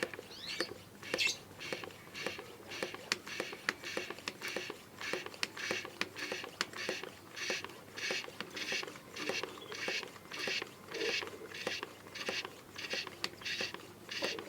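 Hand pump of a pressure spray bottle being worked, with even strokes a little under two a second. Each stroke is a short squeaky hiss with a click, as the bottle of detergent water is pressurised for spraying.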